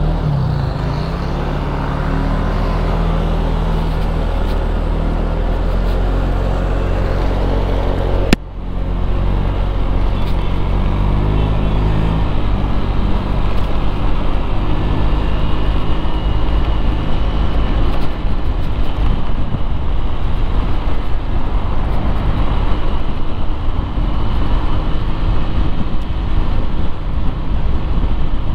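Road traffic noise: an engine runs with a steady, even hum for about the first eight seconds. After a sudden brief drop, a rougher, fluctuating traffic noise without the steady hum takes over.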